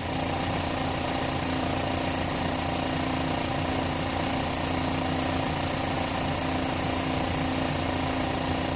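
2010 Chevrolet HHR's four-cylinder engine idling steadily as it warms up, while air is burped out of its freshly refilled cooling system after a thermostat replacement.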